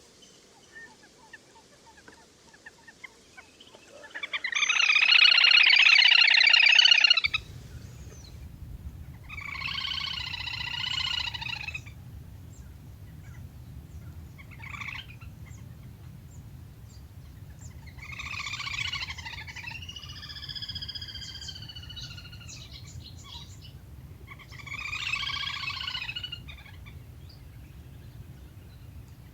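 Little grebe (le le hôi) calls from a lure recording: repeated trilling bursts of one to two seconds each, the first, about four seconds in, much the loudest. A low steady hum lies under the later calls from about seven seconds in.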